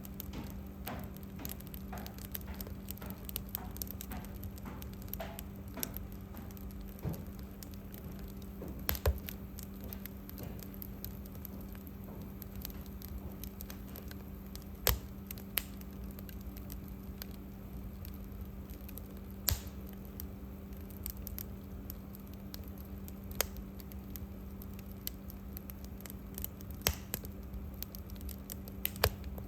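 Wood fire burning in a fireplace, crackling with irregular small clicks and a few sharper pops, over a steady low hum.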